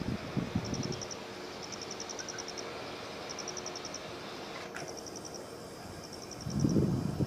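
Insects chirping in short trains of rapid, even pulses, repeated about once a second. A few low, muffled bursts of noise sound at the start and again near the end.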